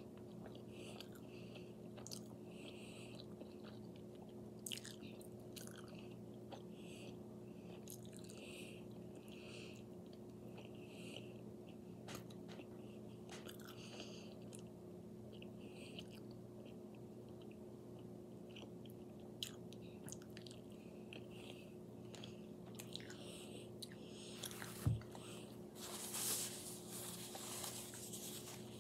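Close-up chewing and mouth noises of a person eating shrimp scampi and bread, small wet smacks repeating every half second or so. Near the end there is a single thump, then a couple of seconds of rustling.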